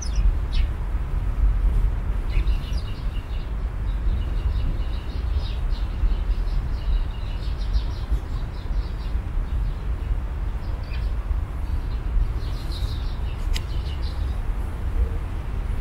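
Small birds chirping in quick runs of short high notes, in two spells with a pause between, over a steady low rumble.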